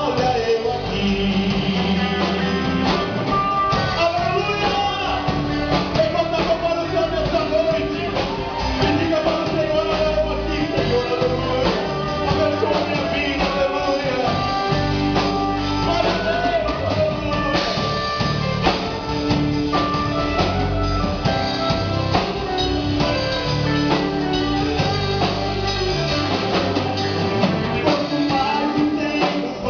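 A Christian band playing live in a rock style: a singer's voice over guitar and a drum kit, with a steady beat.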